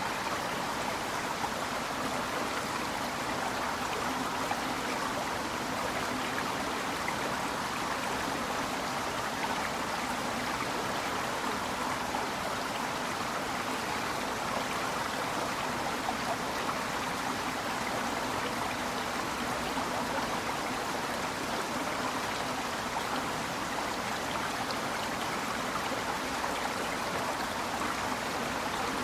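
Azusa River, a clear snowmelt mountain river, running with a steady murmur of flowing water that stays even throughout.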